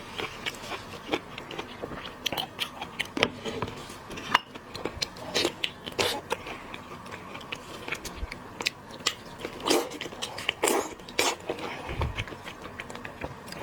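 Close-miked eating of shellfish: a person biting and chewing, with many sharp, irregular wet clicks and small crunches.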